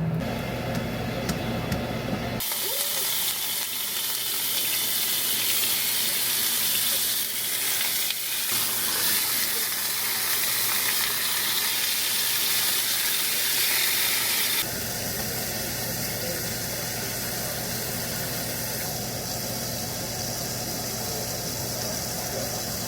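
Food sizzling in a hot pan: an even hiss that holds steady for about twelve seconds, then drops to a quieter, duller hiss after a cut.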